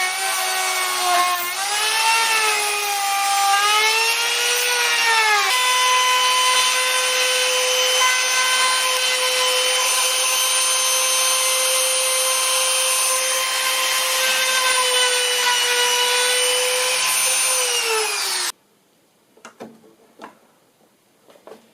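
Handheld router cutting timber: its high whine dips in pitch and recovers several times as the bit bites into the wood, then runs steady, and stops abruptly near the end. A few light knocks follow.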